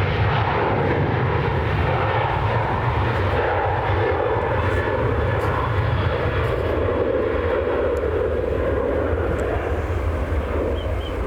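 Boeing 737-8 airliner's jet engines, a loud steady roar that eases slightly near the end.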